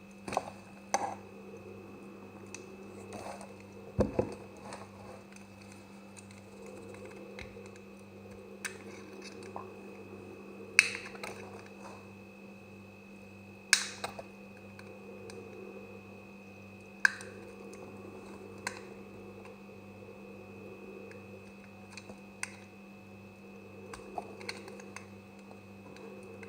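Knife cutting semi-dry soap: sharp crisp clicks and crunches at irregular intervals, the loudest about eleven and fourteen seconds in, over a steady background hum.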